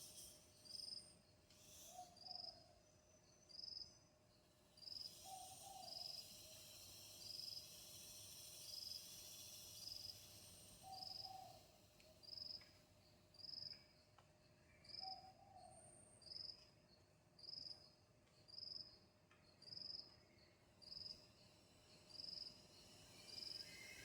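An insect chirping steadily, one short high-pitched chirp about every second, cricket-like. A few short, low hoot-like calls from another animal come in between, four times.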